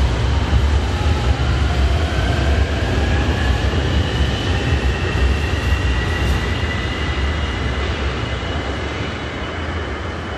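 RapidKL LRT electric train pulling out of the station, its traction motors whining and rising in pitch as it accelerates over a heavy low rumble. The rumble fades over the second half as the train leaves.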